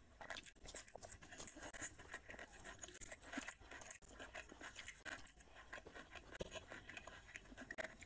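Chewing and wet mouth smacks of a person eating rice and curry by hand, heard as many soft, irregular clicks, with fingers mixing rice on the plate between bites.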